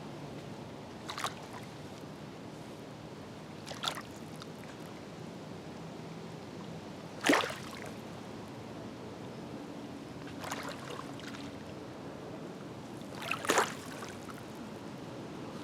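Small waves of Green Bay lapping and splashing against the shore, one splash about every three seconds over a steady low wash of water; the splash a little past the middle is the loudest, and two come in quick succession near the end.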